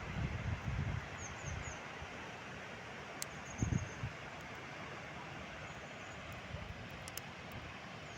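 Outdoor ambience of a steady rushing noise, with a small bird chirping in short runs of three or four high notes several times. There are low rumbles of wind or handling on the microphone in the first second and again about three and a half seconds in.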